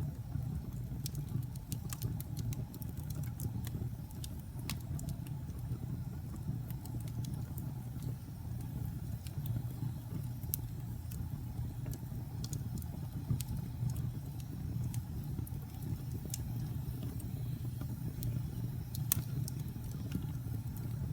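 Campfire burning with a steady low rumble of flame, broken by scattered sharp crackles and pops from the burning wood, a few of them louder.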